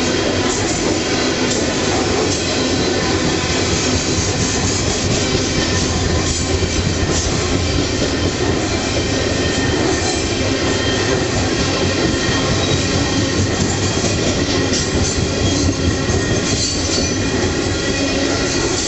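Loaded coal hopper wagons rolling past close by: a steady, loud rumble and clatter of steel wheels on rail, with high wheel squeal at times.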